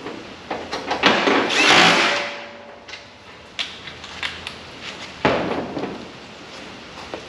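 Shop work on truck sheet metal: scattered knocks and clatter of metal parts being handled and fitted, with a louder noisy rush about a second in and another near the five-second mark.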